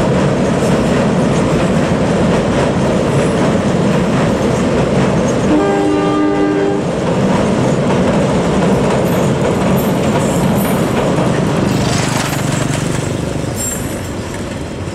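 Loaded freight hopper wagons rolling over a steel truss rail bridge: a steady, loud rumble and clatter of wheels on rail. About five and a half seconds in, a two-tone horn sounds for just over a second.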